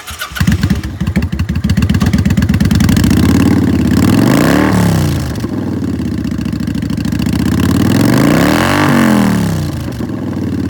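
Kawasaki Vulcan 900 Custom's liquid-cooled, fuel-injected V-twin, breathing through Vance & Hines aftermarket exhaust pipes, starting up and settling into a steady idle. It is revved twice, once about halfway through and once near the end, the pitch rising and falling each time.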